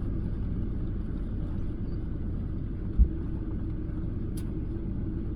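Cabin noise of a Boeing 737-800 airliner during its landing: a steady low rumble of engines and airframe, with one sharp low thump about three seconds in.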